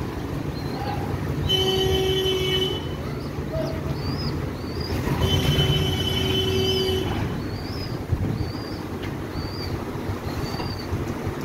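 Steady low rumble of a running vehicle, with two long, steady horn-like tones, the second longer than the first, and short high chirps repeating about once a second.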